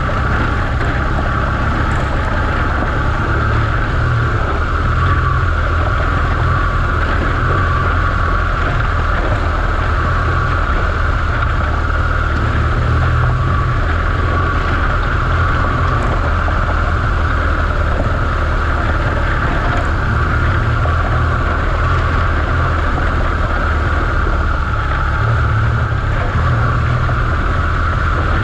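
BMW R1200GS Adventure's boxer-twin engine running steadily as the motorcycle rides along a gravel track, with wind noise on the microphone.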